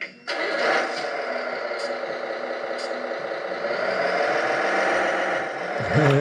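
Servonaut sound module in an RC Peterbilt dump truck playing a simulated diesel truck engine through its small speaker. It comes on just after the start and runs steadily, rising a little in pitch past the middle before settling back.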